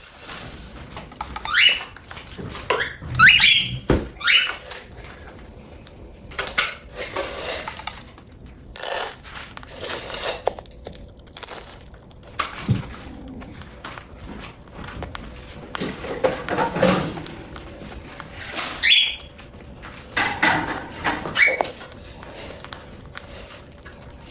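Cockatiels giving short, rising chirps several times, with bursts of scratchy, clattering noise in between.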